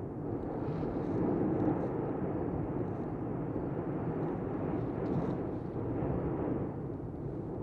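Erupting Cumbre Vieja volcano giving off a steady low roar, with no separate blasts standing out.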